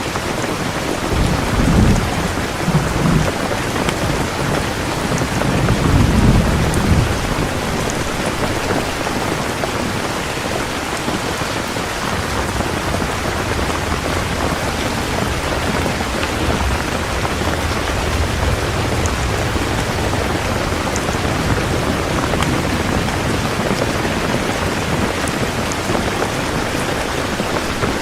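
Heavy rain falling steadily, with low thunder rumbling twice, a couple of seconds in and again about six seconds in.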